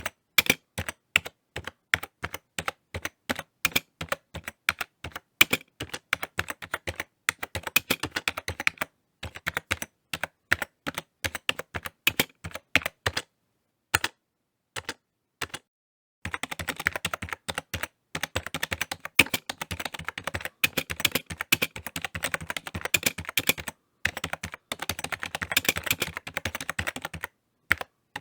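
Typing on a computer keyboard: irregular key clicks, with a nearly silent pause of about three seconds about halfway through, then a long run of faster, denser typing.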